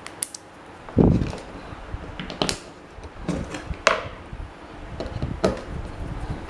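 A few sharp knocks and clicks of metal parts and tools being handled during work on an old electric fan, with a heavier low thump about a second in.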